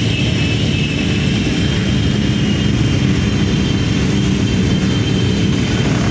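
Many motorcycle and scooter engines running together in a riding group, making a steady, dense engine drone.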